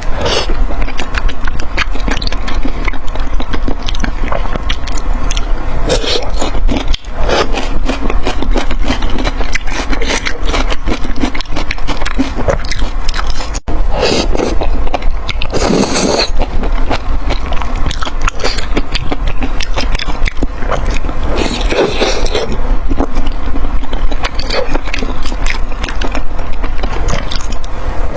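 Close-miked eating sounds: dense crackling chewing and food handling, with louder noisy bursts every several seconds.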